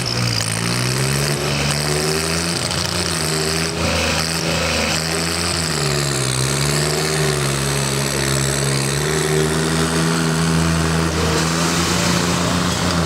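Swaraj 855 tractor's three-cylinder diesel engine running, its speed rising and dipping several times, then holding higher and steady.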